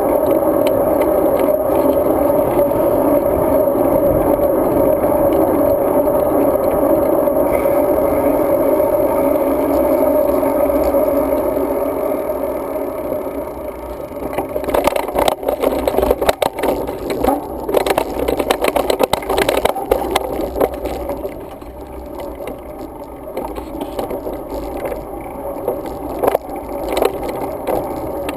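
Riding noise from a road bike, picked up by a GoPro Hero 2: a steady rush of wind and tyres on pavement. About halfway through it turns into uneven clattering and rattling.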